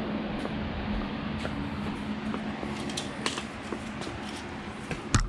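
Handling noises from getting a power cord and plug ready: a few light clicks and a sharp knock near the end, over a steady background hum.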